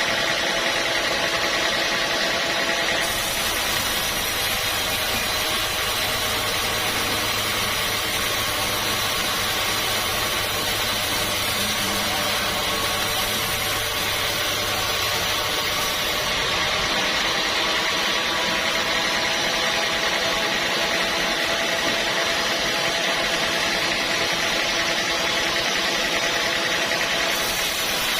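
Sawmill machinery running steadily: an even mechanical drone made of several held tones and a high whine. A low hum underneath drops away about halfway through.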